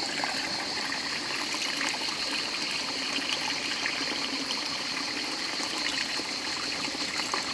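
Shallow, clear river trickling and babbling over rocks: a steady, even rush of running water.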